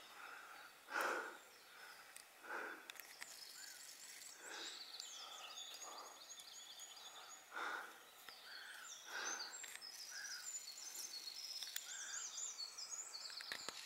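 Birds singing faintly, with many short, quick, high chirping phrases overlapping. Soft puffs of air come about every second and a half, the strongest about a second in.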